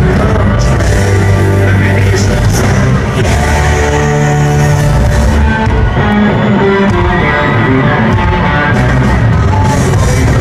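Live country-rock band playing loud, with singing and electric guitar, as heard from the audience in a large arena.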